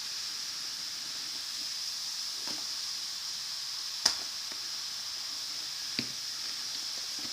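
LOL Pearl Surprise bath-fizz shell dissolving in water: a steady high fizzing hiss, with two brief clicks, one about four seconds in and a fainter one near six seconds.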